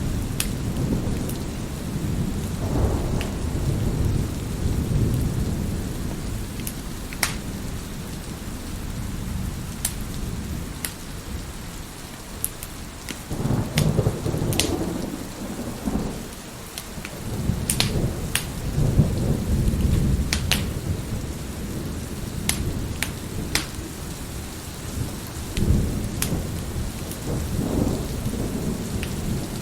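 Steady rain with about four long rolls of thunder, and sharp crackles and pops of a wood fire burning in a fireplace scattered throughout.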